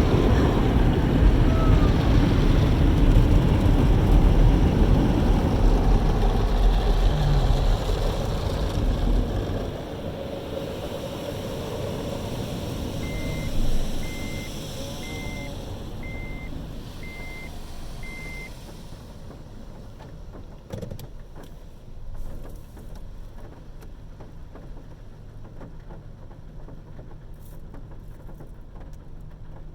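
Car wash running: a loud rushing spray for about the first nine seconds, then a quieter steady hum. Six evenly spaced high beeps, about a second apart, come midway through.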